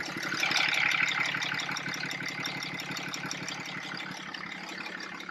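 2009 Dodge Ram 2500's 6.7-litre Cummins inline-six turbodiesel idling with a steady, even diesel clatter, running after a water pump replacement with no leaks. It is loudest about a second in, then eases off a little.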